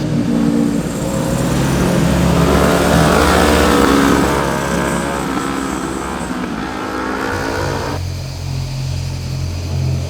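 Sport motorcycle engines running. One grows louder and its pitch sweeps as it passes in the middle, then the sound cuts abruptly to a lower, steady engine note about eight seconds in.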